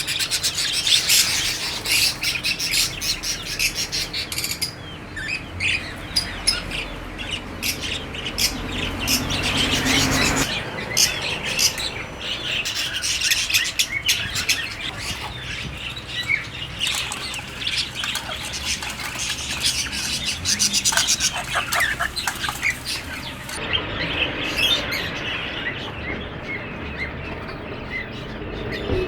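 Many small caged birds chirping continuously, a dense overlapping chorus of short high calls.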